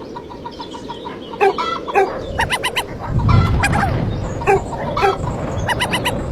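Chickens clucking in a series of short calls. A low rumble joins about halfway through.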